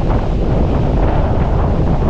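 Strong wind buffeting the microphone in a steady, loud low rumble, with ocean surf behind it.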